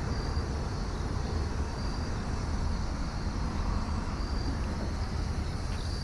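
Steady outdoor background rumble with an insect chirping in short, high calls about every second and a half.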